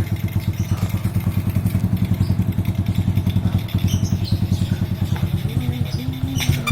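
Honda C70 motorcycle with a swapped-in Honda Supra Fit single-cylinder four-stroke engine running steadily just after starting, with an even putter from the exhaust.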